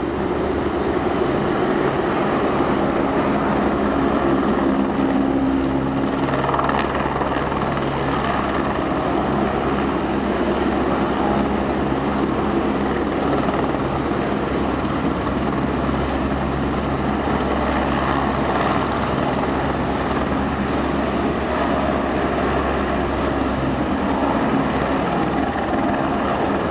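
Helicopter running with a loud, steady rotor and engine noise that holds throughout.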